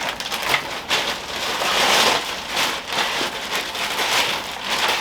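Packaging rustling and crinkling in uneven surges as an item is handled and unwrapped.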